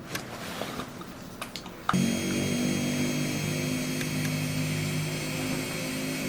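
Small electric foot-care grinder (nail drill) switching on about two seconds in and running at a steady speed, after a few faint scraping clicks.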